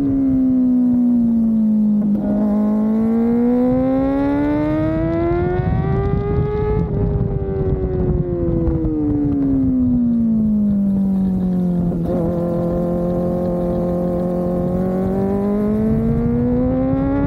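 Kawasaki ZX-4RR's 399 cc inline-four engine on the move, its pitch sliding down, climbing steadily for about five seconds, falling again, holding level for a few seconds, then rising near the end, over a low rush of wind and road noise.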